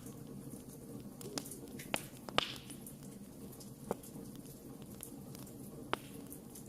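Wood campfire burning, a steady low rush of flame with sparse sharp crackles and pops, about half a dozen; the loudest pop comes a little over two seconds in and is followed by a brief hiss.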